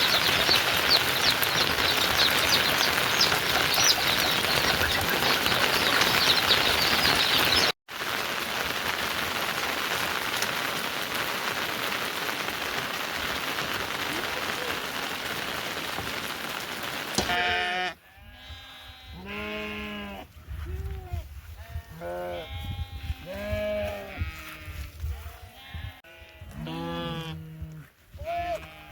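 Heavy rain falling steadily, briefly cut off about eight seconds in and then a little quieter. About seventeen seconds in the rain stops abruptly, giving way to livestock bleating over and over, short calls rising and falling in pitch.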